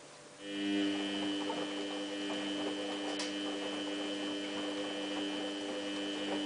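Samsung WF8804RPA washing machine humming steadily, a mains-pitched electrical hum that switches on about half a second in and holds level, with a faint click partway through.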